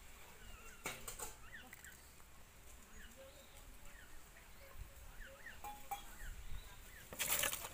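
Birds chirping in many short, quick calls, with a short loud burst of noise near the end.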